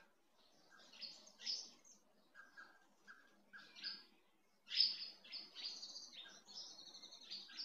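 Small birds chirping and twittering in quick runs of short high notes, busier and louder in the second half.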